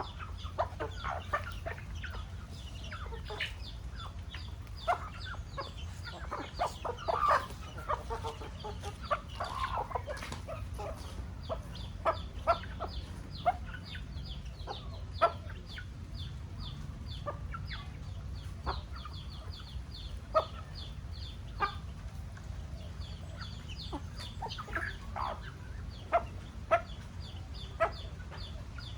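A flock of chickens clucking, with many short high-pitched calls in quick succession and scattered louder clucks. A steady low hum runs underneath.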